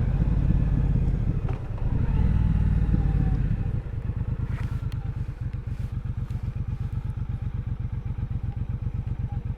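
Triumph Bonneville Bobber's 1200 cc parallel-twin engine running at low revs, then settling from about four seconds in into a quieter, loping beat of rapid even pulses, as at idle or a slow roll.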